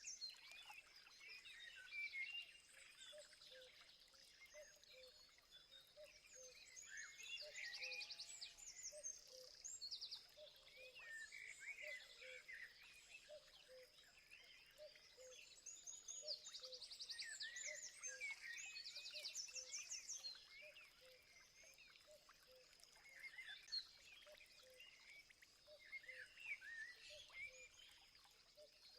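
Several wild birds chirping and trilling, with quick rattling trills now and then. Under them runs a steady high-pitched hum and a low note repeating about twice a second.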